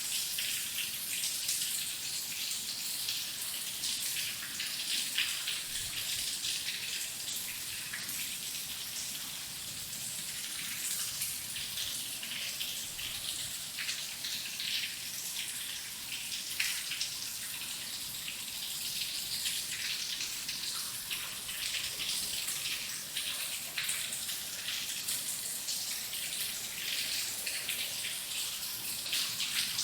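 Heavy rain falling steadily, a dense hiss of many drops with fine pattering ticks throughout.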